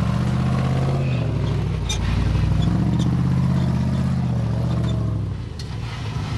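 Jeep Wrangler TJ engine revving up and down under load as it crawls over rocks, its pitch falling, rising and falling again, with a few sharp clicks.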